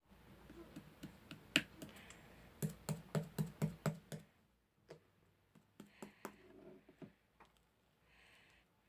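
Slime being squeezed and pressed by hand, making sharp clicking and popping sounds. Near the middle there is a quick run of about seven loud pops, followed by softer scattered clicks and squishes.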